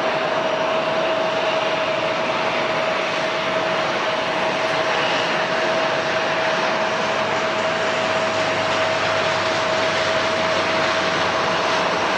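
Airliner jet engines running steadily: an even rushing noise with a constant whine, neither rising nor falling.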